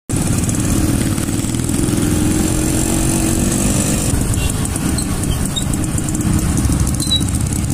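Motorcycle engines running steadily at riding speed in a group: a dense, low, pulsing engine note.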